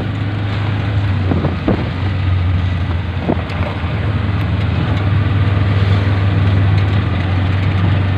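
Steady engine hum and road noise of a vehicle being ridden through town traffic.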